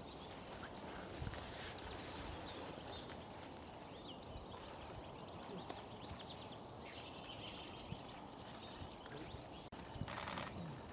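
Small birds' thin, high calls and twitters scattered over a steady outdoor hiss, with a few faint knocks and two brief louder noisy bursts near the middle and the end.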